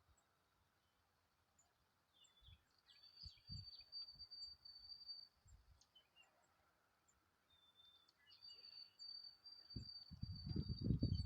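A small songbird singing a high, thin, even trill of about two seconds, repeated once, amid faint scattered chirps. Low rumbling thumps come in near the end.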